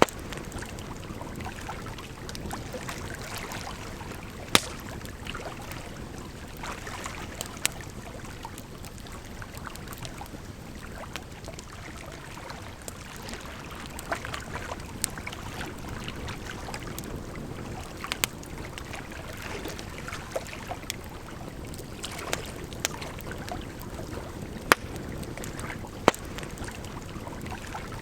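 Wood fire crackling, with scattered sharp pops, several of them loud, over a steady rush of flowing water.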